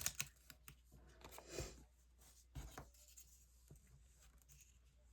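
Faint scratchy rubbing of a paintbrush spreading glue over paper, with a few light knocks.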